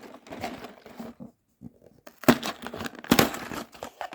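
Lego set being unboxed by hand: cardboard box and plastic parts bags rustling and crinkling. Two sharp knocks about two and three seconds in, each followed by louder crinkling.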